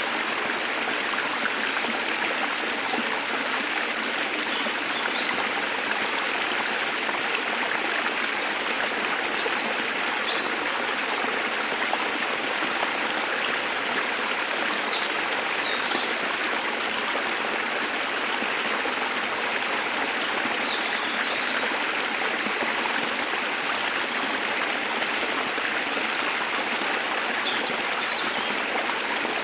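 Steady rush of water falling and running over rocks, with a few faint, short bird chirps scattered through it.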